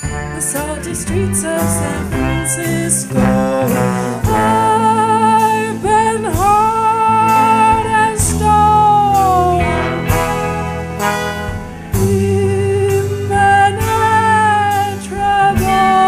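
Band music: a folk-blues song with guitar, steady bass and a lead melody line that slides between notes.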